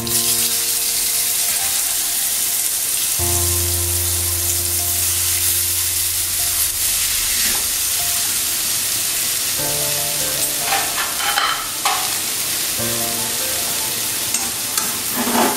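Mashed boiled green banana sizzling in hot oil in a metal karai; the sizzle starts the moment it goes in. A metal spatula stirs it, scraping against the pan now and then.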